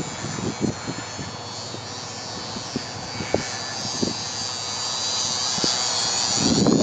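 Electric motor and propeller of a small radio-controlled aerobatic plane whining in flight, the pitch wavering and growing louder toward the end. A few short thumps of wind hit the microphone.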